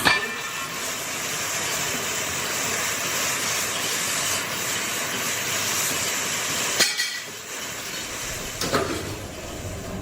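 Factory machinery running with a loud, steady hiss, broken by sharp knocks near the start and about seven and nine seconds in.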